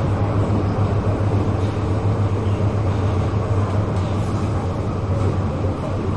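Interior running noise of a Metro Cammell 'MLR' electric multiple unit train in motion: a steady low hum under the rumble of the car on the track.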